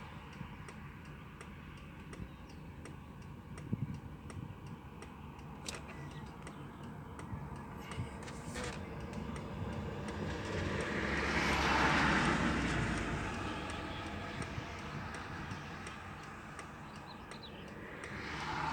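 Road traffic: a vehicle passes, its noise swelling to a peak about twelve seconds in and fading, and another comes up near the end. Under it runs a steady, even, fast ticking.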